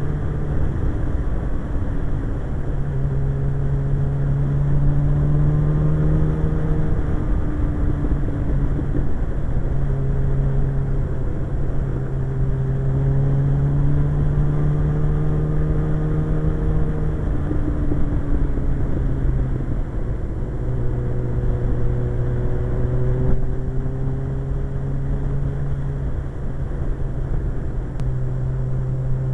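Suzuki GSX-R 1100's inline-four engine running at a steady riding speed, its pitch easing up and down slightly every few seconds, over a steady low rush of wind noise on the helmet-level microphone.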